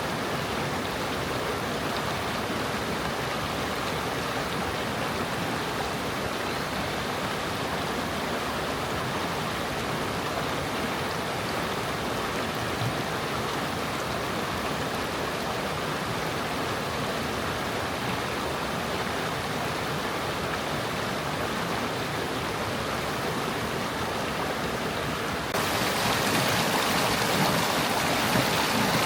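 A small stream babbling and flowing over stones, a steady rushing water noise. About 25 seconds in it abruptly becomes louder and brighter.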